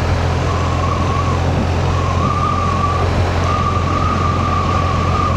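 Motorcycle under way heard from the rider's helmet: a steady engine and wind rumble with a thin, level whine on top that wavers slightly and edges up in pitch.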